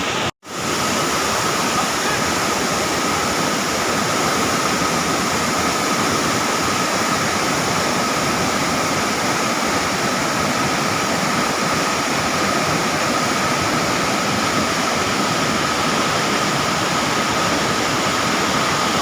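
Waterfall in heavy flood: a loud, steady rush of falling water, briefly cut to silence about half a second in.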